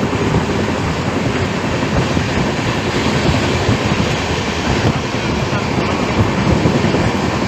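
Moving passenger train: the steady rumble and rattle of the coach running on the rails.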